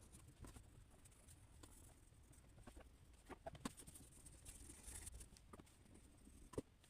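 Faint drawing sounds: a pen or pencil tapping and scratching on paper in scattered, irregular clicks, with a short stroke near the middle.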